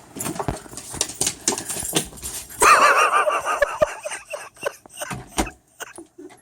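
Rottweiler puppy whining in a wavering, high-pitched cry for about a second and a half, with crunching and rustling in deep snow around it.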